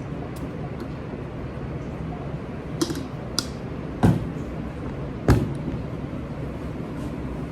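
Dishwashing-station clatter over a steady background hum: two light clinks, then two loud knocks about a second apart.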